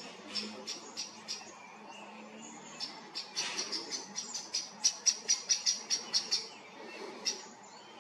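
A bird chirping: a series of short, high chirps, about three a second at first, then a quicker run of about five a second after a short pause, ending with one last chirp near the end.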